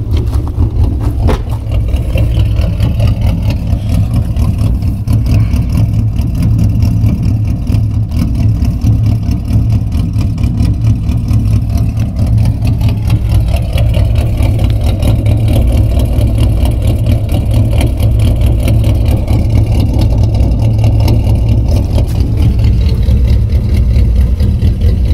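Ford Mustang 4.0 V6 idling steadily, with a deep exhaust note from long tube headers, no catalytic converters and a true dual exhaust with Cherry Bomb glass packs.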